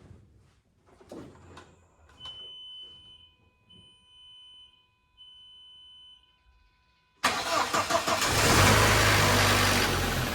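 Three electronic beeps over a faint steady tone, then about seven seconds in the VW Passat's engine is cranked and starts, running loudly.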